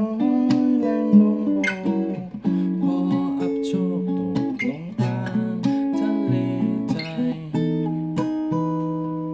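Acoustic guitar played without singing: strummed chords mixed with picked melody notes, in an instrumental passage of a song.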